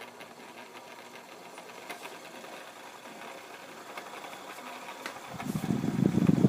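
Electric stand fan running with a loud mechanical rattle that starts about five seconds in. The noise while spinning is the fault being repaired, put down to a worn shaft and bushing.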